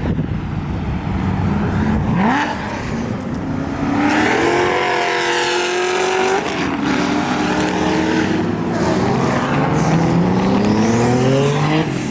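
A performance car accelerating hard away from a car meet. The engine note climbs, drops sharply about six and a half seconds in as it shifts up, then climbs again through the next gear.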